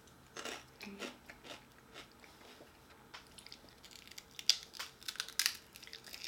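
Crunchy lentil chips being bitten and chewed, with scattered short crunches, the loudest about four and a half and five and a half seconds in.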